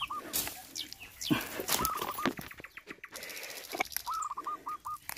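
A chicken clucking in two quick runs of short, hooked notes, over scuffing footsteps and rustling on a rocky trail.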